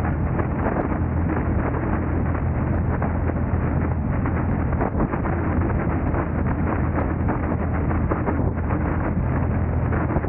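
Steady noise of a car driving, with a constant low hum and wind rushing on the microphone.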